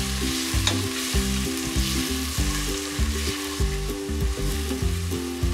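Onion, tomato, coriander and mint masala sizzling in an open pressure cooker while it is stirred with a wooden spatula, a steady frying hiss. Background music with a run of low notes changing every half second or so plays underneath.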